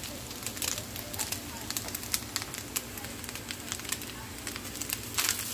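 Noodles, cabbage and carrot frying in an oiled pan, sizzling steadily with frequent small crackles and pops. The sound grows louder and fuller shortly before the end.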